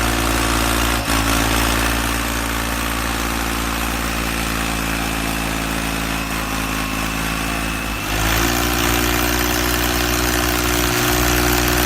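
An engine idling steadily. About eight seconds in its note steps slightly higher and holds there.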